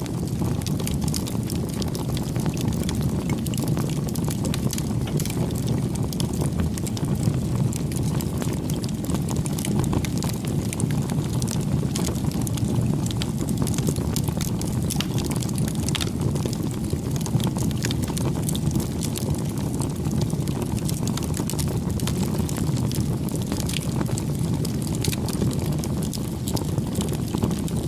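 Wood campfire burning, a steady low rumble of flame with frequent sharp crackles and pops from the burning wood.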